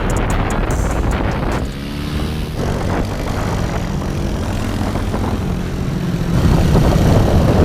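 Small single-cylinder four-stroke pit bike engine running and revving, its pitch climbing about two seconds in; it grows louder near the end.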